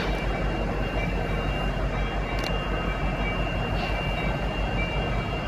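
Diesel-hauled freight train rolling past: a steady rumble with a pulsing low drone from the locomotives and a faint, thin, high whine over it.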